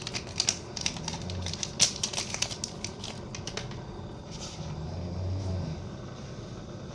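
Quick, irregular sharp clicks and taps for about the first three and a half seconds, then fewer, over a faint steady hum.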